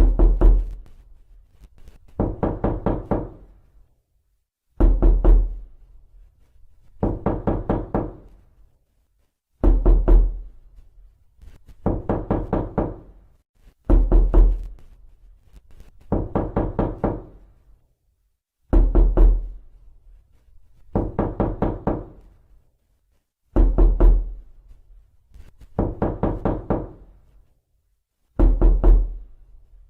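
Knocking on a door in repeated bursts of several quick raps, each burst lasting about a second and coming roughly every two and a half seconds. Every other burst is heavier, with a deep thud.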